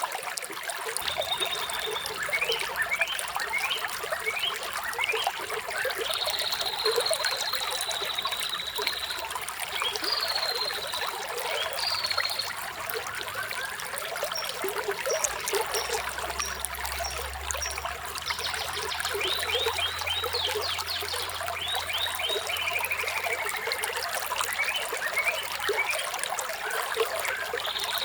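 Flowing water trickling steadily, with birds chirping over it: short whistled chirps, a long held whistle several seconds in, and quick falling chirps and trills later on.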